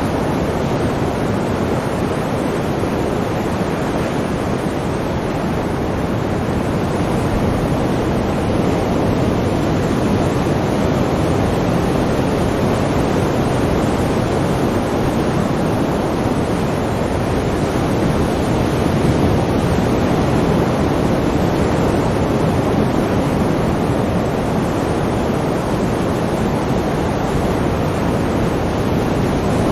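Sea waves washing on the shore in a continuous, dense rush of water noise that swells gently and never breaks into separate crashes.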